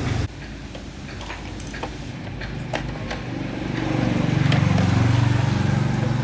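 A motor vehicle's engine running nearby, a low rumble that swells louder about halfway through, with scattered light clicks.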